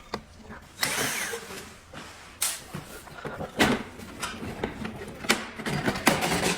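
Hands working on an inkjet printer's plastic casing: scattered sharp clicks and knocks with short scraping noises as screws come out and panels are pried loose.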